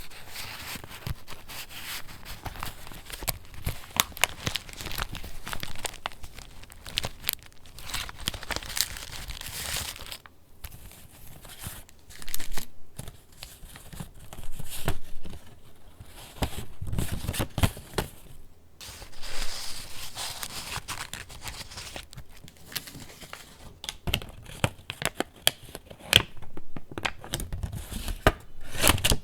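Pages of a handmade paper junk journal being turned and handled: paper rustling and crinkling in irregular bursts, with small sharp clicks.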